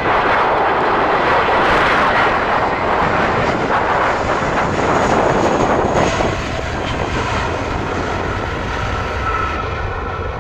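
Jet airliner's engines close by, a loud roar that eases off about six seconds in to a lower steady rumble.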